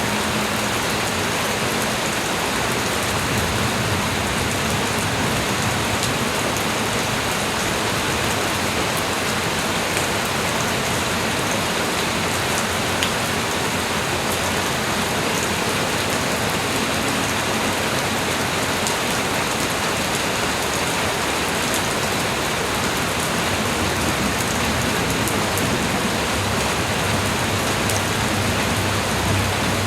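Light rain falling steadily: an even hiss with scattered faint drop ticks.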